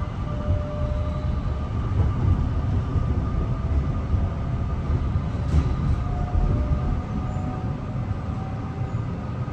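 Mariyung electric train rolling past with a steady low rumble and a faint motor whine, louder in the middle. A single short click about five and a half seconds in.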